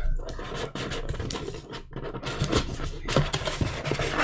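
Trading cards being handled and slid against one another, giving a run of scratchy scrapes and small clicks.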